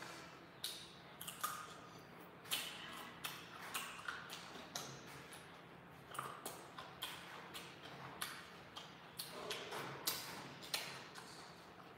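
A person chewing crunchy food with the mouth open, close to the microphone: irregular sharp crunches and wet mouth clicks, about two a second.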